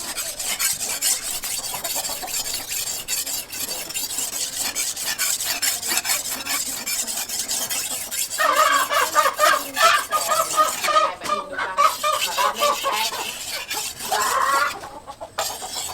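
Rapid scraping or rasping strokes, with domestic fowl calling over them. The calling is loudest from about halfway through to near the end.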